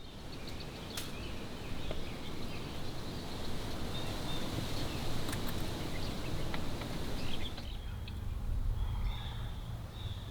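Outdoor ambience: wind rumbling on the microphone, with birds chirping in the background and a few faint clicks.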